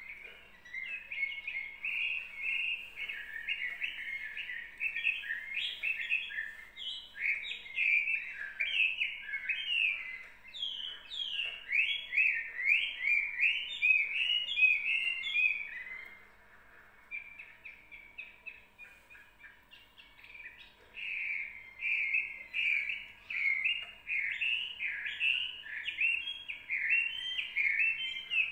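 Small songbird twittering in quick runs of high chirps, falling away for a few seconds about halfway through, then starting again. A faint steady hum lies underneath.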